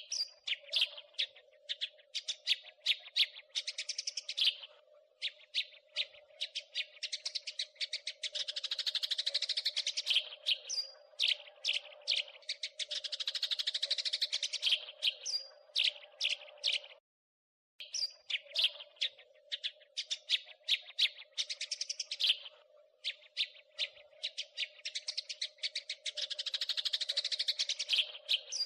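House sparrow chattering: dense runs of rapid, sharp chirps alternating with separate single chirps, over a faint steady low hum. The sound cuts out completely for under a second about two-thirds of the way through.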